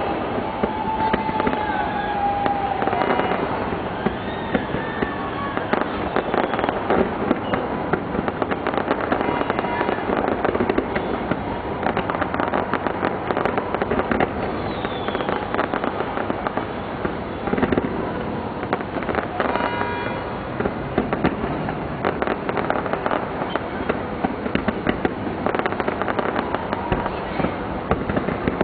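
Fireworks going off in a rapid, continuous barrage of bangs and crackles, over the voices of a large crowd, with a few whistles near the start.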